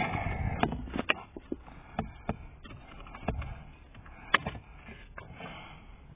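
Handling noise: scattered sharp clicks and knocks over a low rustle, busiest in the first second, with the sharpest knock a little past the middle.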